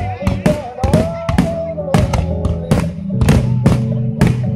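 Music with a wavering melody line over steady bass tones, played together with an aerial fireworks display. Repeated sharp bangs of shell bursts run throughout, with a quick run of them near the end.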